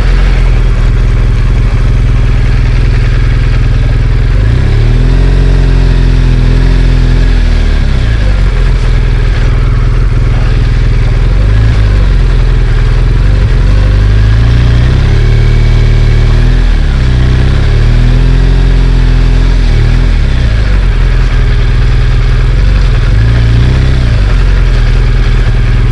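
BMW R1200GS Adventure's boxer-twin engine running while riding, the revs rising and falling several times as it accelerates and eases off.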